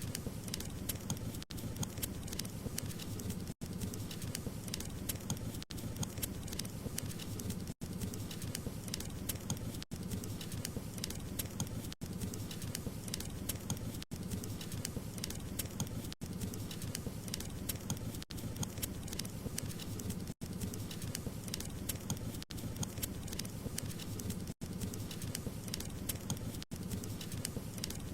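Wood fire crackling: dense quick crackles and pops over a low steady rumble of flames, with brief dips in the sound about every two seconds.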